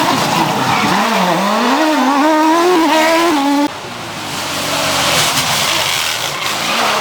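Historic rally car engine at high revs through a corner, its pitch dipping and climbing. A little over halfway through the engine note cuts off suddenly as the driver lifts, leaving a hiss of tyres sliding and a quieter engine.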